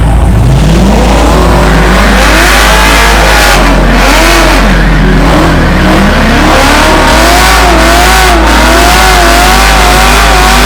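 Cars accelerating hard at full throttle in a drag race, under loud music with a heavy, steady bass.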